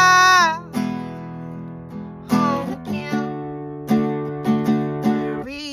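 Folk song on a strummed acoustic guitar, chords struck about once a second. A held sung note with vibrato fades out about half a second in.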